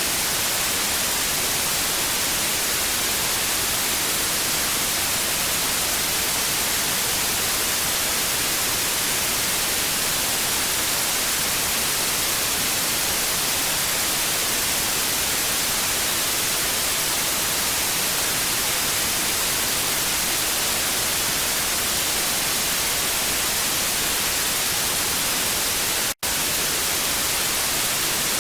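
Analog TV static: a steady, even hiss weighted toward the highs, broken by a split-second gap near the end.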